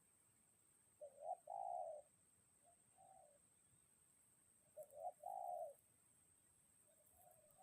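Spotted dove (tekukur) cooing faintly: two phrases about four seconds apart, each a short note followed by a longer one, with softer single notes in between.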